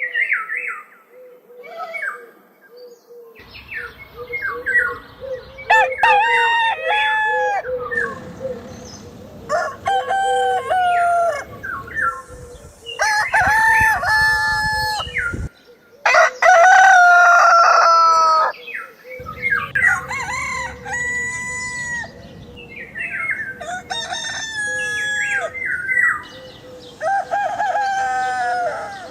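Roosters crowing over and over, one cock-a-doodle-doo after another, about every two to three seconds.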